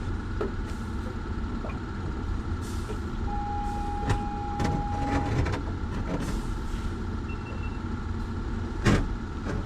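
Electronic beep from the offshore rig, one tone held about two seconds, over a steady mechanical hum and rumble. A sharp knock sounds near the end.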